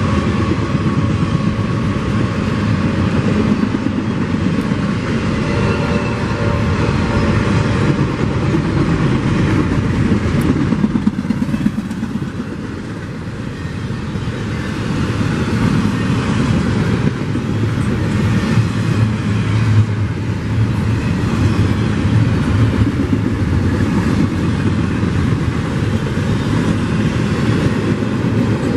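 CSX double-stack container train passing close by: a steady, loud rumble and clatter of steel wheels on rail as the container well cars roll past, with a brief dip in loudness a little past the middle.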